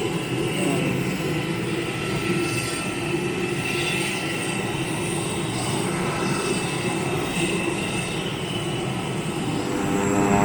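Propeller aircraft engine running steadily, growing louder near the end.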